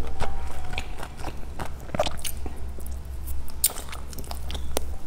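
Close-miked chewing of a soft, translucent jelly-like cake: a run of wet mouth clicks and sticky smacks at an uneven pace, over a steady low hum.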